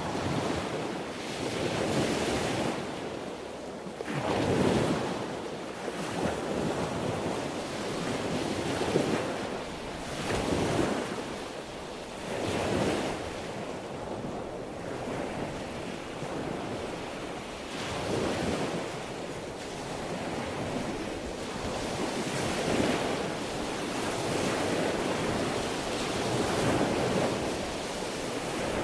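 Ocean waves breaking and washing on the shore, the surf swelling and ebbing every few seconds over a steady hiss, with wind noise on the microphone.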